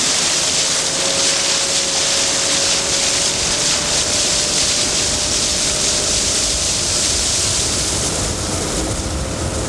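A small boat's outboard motor running steadily, with a faint steady whine, under a loud rush of water and wind noise.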